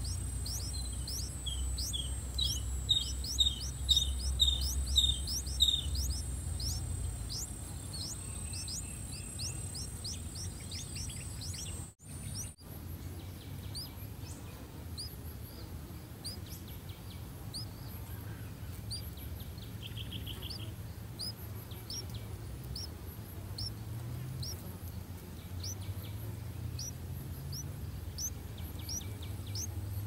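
High, thin bird chirps repeated every half second or so, with a run of about eight louder chirps in the first few seconds. Under them are a steady high whine that stops with a brief dropout near the middle, and a low rumble.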